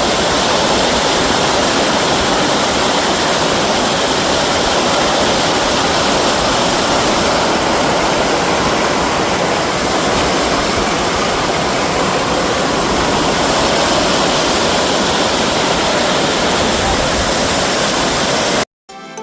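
Loud, steady rush of water pouring over the spillway of the overflowing Orós reservoir; it cuts off suddenly near the end.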